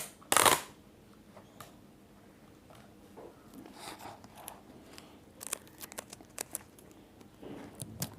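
Sticky tape pulled off and torn once, sharply, about half a second in, then soft rustling and small clicks of paper and tape being handled.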